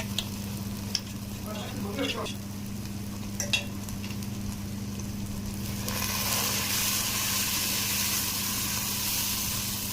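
Ground chilli paste sizzling in hot oil in a pan for sambal, with a spatula scraping and knocking on the pan a few times in the first seconds. The sizzle grows louder about six seconds in, over a steady low hum. The paste is frying until the oil separates out.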